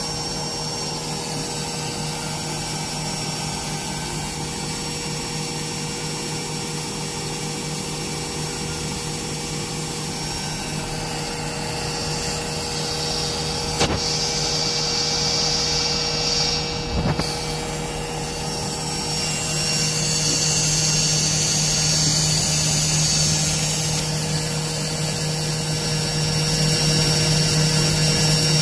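Belt-driven washing machine motor running through a spin cycle, a steady mechanical hum with the drum turning, growing louder toward the end. Two sharp clicks come about halfway through.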